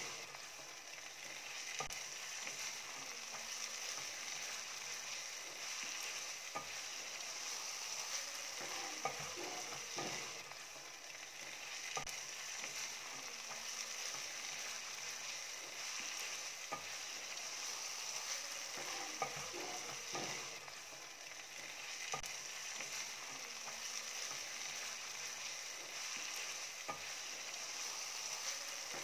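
Minced meat sizzling steadily in oil in a nonstick pan while a wooden spatula stirs it, with scraping rustles and occasional sharp taps against the pan.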